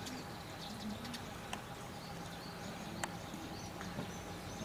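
Outdoor ambience with birds chirping faintly in the background, a few sharp clicks and a low steady hum.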